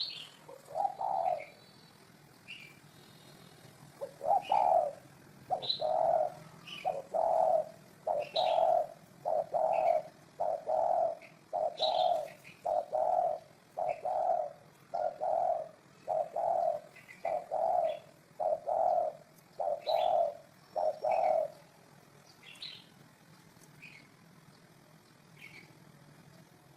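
Spotted dove cooing in a long run of evenly spaced low coos, about one a second, which stops some 21 seconds in. Small birds chirp thinly in the background throughout.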